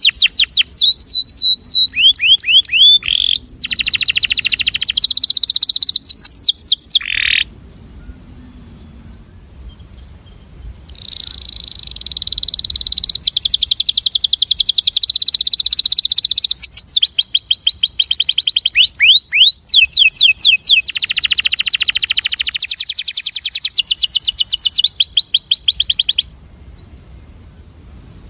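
Male domestic canary singing its breeding song: fast trills of repeated high whistled notes that sweep downward, alternating with buzzy rolls. It breaks off about a quarter of the way in, starts again after a few seconds, and stops a couple of seconds before the end.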